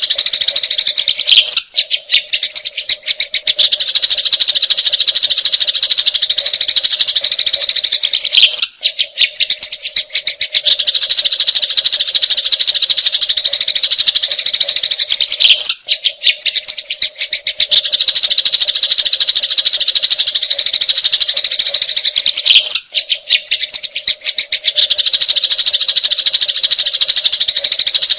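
Sparrows (burung gereja) chattering in a fast, unbroken stream of harsh chirps, the excited calls of fighting sparrows. The same stretch repeats about every seven seconds with a brief break each time, over a steady low hum.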